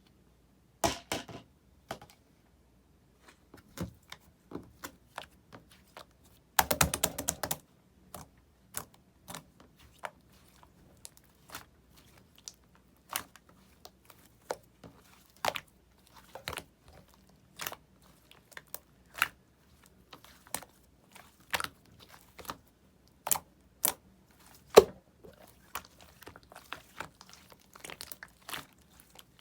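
Hands pressing, squishing and stretching pink-and-purple mixed slime, giving irregular sharp clicks and pops, with a denser crackling run lasting about a second around seven seconds in.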